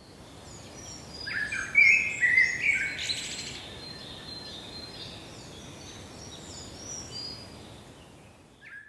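Several birds chirping and singing over a steady outdoor background hiss. The calls are busiest and loudest about one to three seconds in and thin out, fading near the end.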